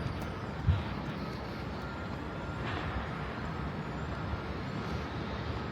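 Steady city background noise with a low traffic rumble, and one short low thump just under a second in.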